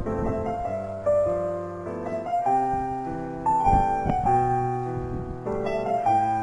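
Slow piano music, notes struck about once a second and left to ring, with a faint gust of wind noise about four seconds in.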